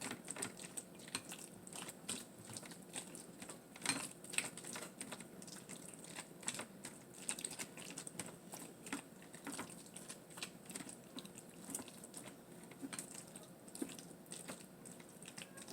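A utensil stirring chicken salad in a bowl: irregular small clicks and taps, with soft wet mixing between them.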